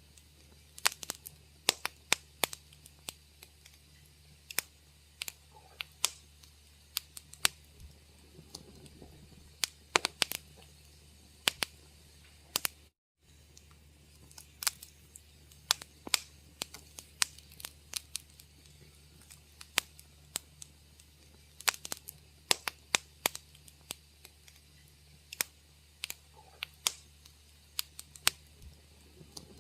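Wood fire crackling in a fireplace: irregular sharp pops and snaps, sometimes several a second, over a steady low hum. The sound cuts out completely for a split second about halfway through.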